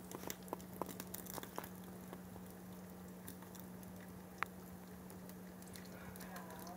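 Faint, scattered crackles and pops from an egg frying over a fireplace fire, thickest in the first two seconds with a single sharper pop a little past the middle, over a low steady hum.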